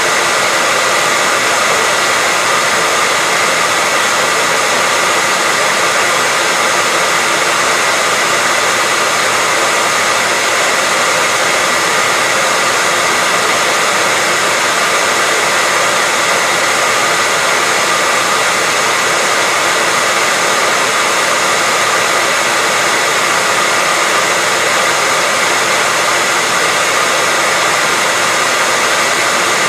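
Hair dryer running steadily: a loud, even blowing hiss with a faint steady whine, unchanging throughout.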